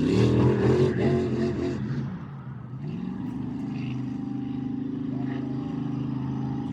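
Monster truck engine revving hard for about two seconds, then settling into a steady, even run.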